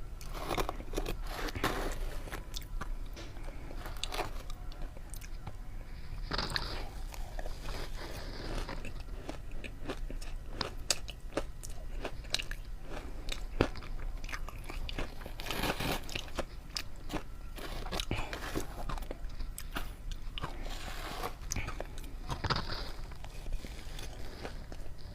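Someone biting and chewing ice: a steady run of sharp cracks and crunches, with heavier bursts of crunching several times.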